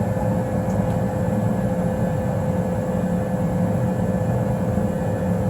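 Newly installed 90% gas furnace running: a steady rush and low hum of the blower and motors, with a thin steady tone above it.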